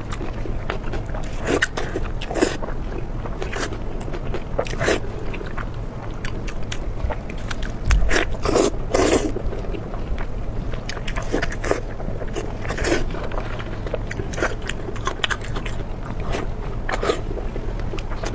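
Close-miked eating: a person biting and chewing food, with irregular clicky mouth and chewing sounds, loudest in a cluster about halfway through.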